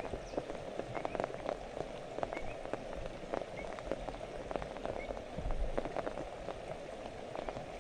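Steady rain falling, with many individual drops ticking sharply through the hiss.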